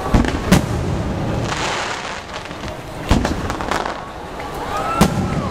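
Aerial firework shells bursting in the sky: four sharp bangs, two in quick succession at the start, one about three seconds in and one near the end.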